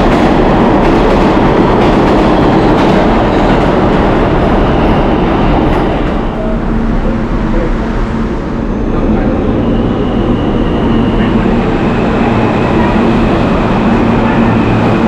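New York City subway train running loudly on the rails. About six seconds in, the noise eases a little and a steady low hum and a high whine come through.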